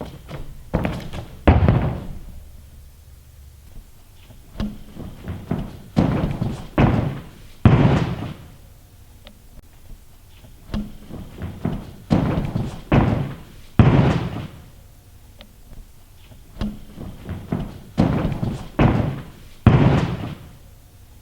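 Tumbling passes on a gym floor: each is a quick run of thumps from hands and feet striking the floor, growing louder and ending in a heavy landing thud. Four such passes follow one another about six seconds apart.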